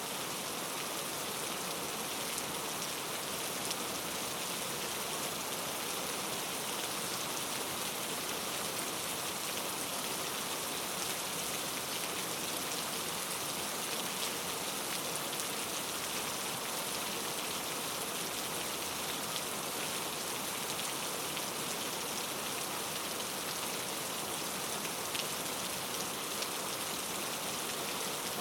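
Steady rain falling and pattering on a surface, an even dense hiss with faint individual drop ticks, unchanging throughout.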